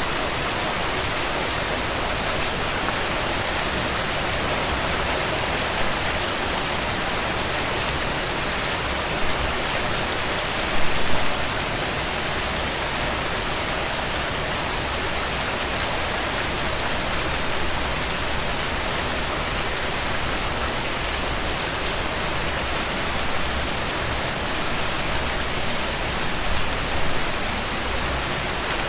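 Steady rain falling and pattering on a surface, with a few brief louder spots, the strongest about eleven seconds in.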